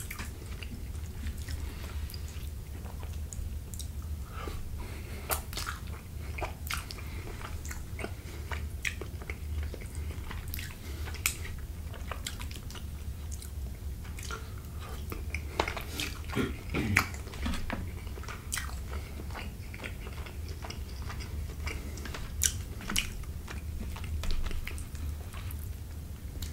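Close-miked chewing of fettuccine Alfredo: irregular wet smacks and mouth clicks, with a few louder ones in the second half, over a steady low hum.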